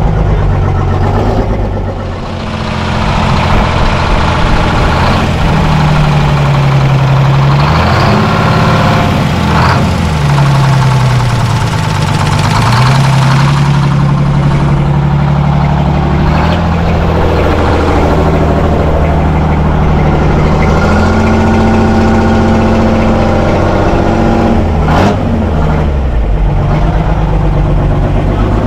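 Detroit Diesel two-stroke engine of a 1974 Chevy C90 semi truck running, its engine speed dropping and climbing back several times, about two, eight, ten, seventeen and twenty-five seconds in, and settling a little higher after about twenty-one seconds.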